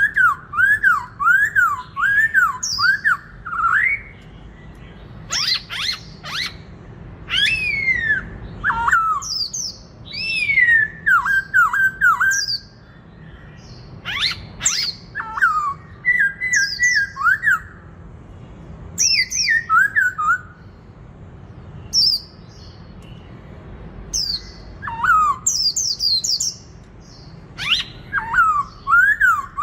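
Black-throated laughingthrush singing hard in contest song: loud phrases of quick rising-and-falling whistled notes, separated by short pauses.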